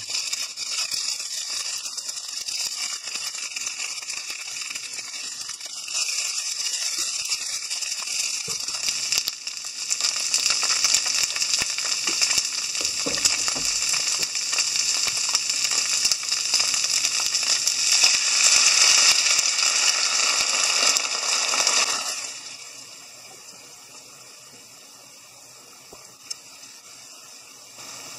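Thick fried tofu and komatsuna sizzling in a frying pan as they are stir-fried, a steady hiss that grows louder once sugar, dashi and soy sauce go in. About 22 seconds in the sizzle drops off suddenly to a faint simmer, with one small click near the end.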